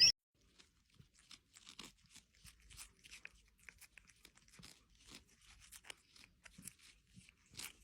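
Faint, irregular crunching clicks, a few per second.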